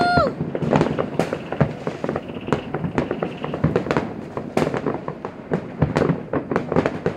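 Fireworks going off in rapid, irregular succession: many sharp bangs and crackling pops overlapping, some louder than others.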